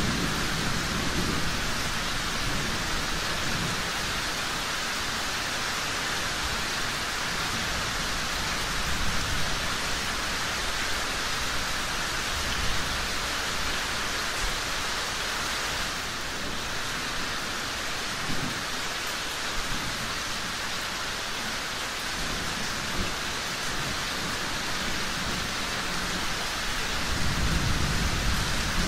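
Steady rain falling, an even hiss, with a low rumble swelling up near the end.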